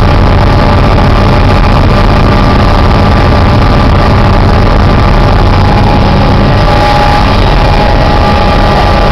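Helicopter engine and rotor noise, loud and steady, with several steady whining tones held over it.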